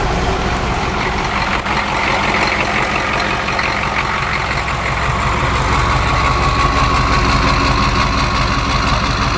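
A 6.5 turbo diesel V8 in an International Scout II running steadily under way in fifth gear. It makes a low, even drone, with a faint whine that builds through the middle and fades near the end.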